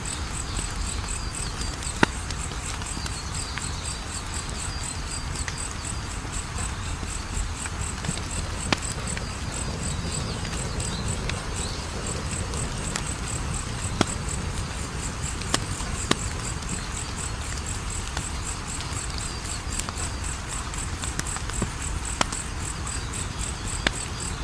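Wood fire in a fireplace crackling: a steady low hiss and rustle with a few sharp pops. A cricket chirps in a steady, rapid high-pitched rhythm over it.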